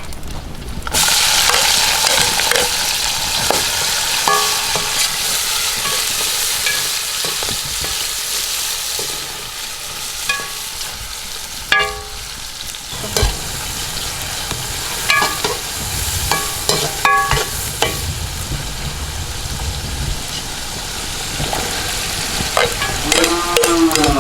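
Food sizzling in hot oil in a cooking pot, the hiss strongest in the first half, with a metal ladle clinking against the pot every so often as it is stirred.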